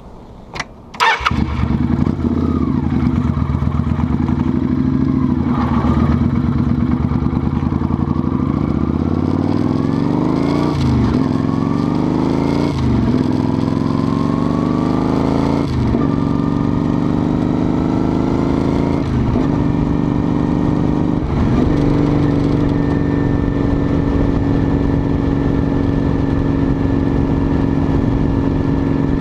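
Motorcycle engine starting up about a second in and running steadily. It then accelerates up through the gears, the pitch climbing and dropping sharply at each of about five shifts, before settling into a steady cruise.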